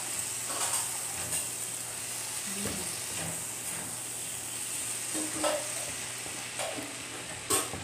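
Beef strips, green bell pepper and onion sizzling in a frying pan with their stir-fry sauce just added, while a wooden spatula stirs and scrapes through them in short strokes. One sharper knock of the spatula against the pan comes near the end.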